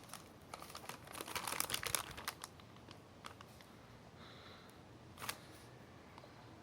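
Faint crinkling and rustling, with a few sharp clicks.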